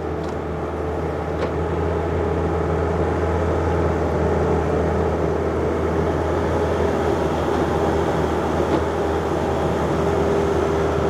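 John Deere 50ZTS mini excavator's diesel engine running steadily under working load, with a steady whine held above the engine note.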